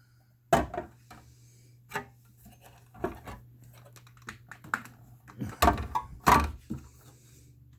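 Scattered small clicks and knocks of hands working wires and spade connectors into a terminal block, with a louder run of knocks a little over halfway through, over a low steady hum.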